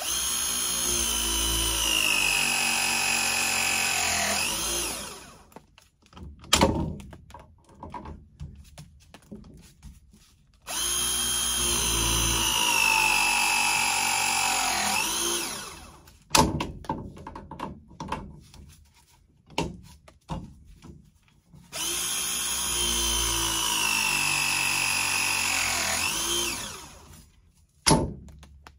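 Milwaukee ProPress tool crimping 3/4-inch copper press fittings, three press cycles. In each, the motor whines for about five seconds, sinking in pitch as the jaws close on the fitting under load, then gives a quick upward sweep as the press finishes. Between presses come clicks and knocks as the jaws are moved to the next fitting.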